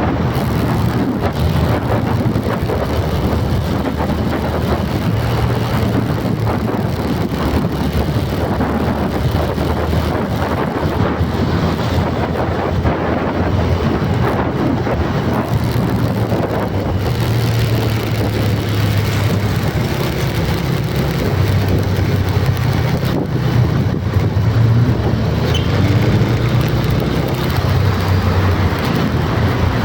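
Steady motor-vehicle noise: an engine running under road and wind noise, its low hum shifting slightly in pitch.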